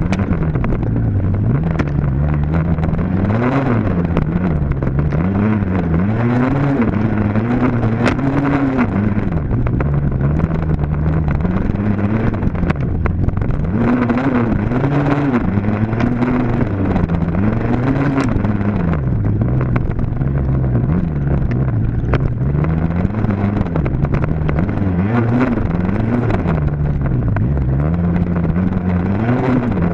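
Dirt bike engine being ridden hard, its pitch climbing and dropping again and again as the throttle is opened and closed and the gears change.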